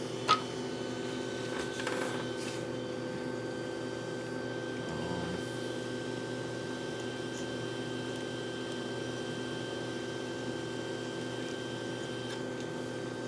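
Steady electrical hum of a machine or appliance running in the room. One sharp click comes about a third of a second in, and a fainter knock follows about two seconds in.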